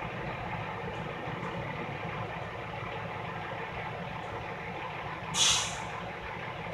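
Truck diesel engine idling steadily, with one short, loud hiss of released air from an air brake a little after five seconds in.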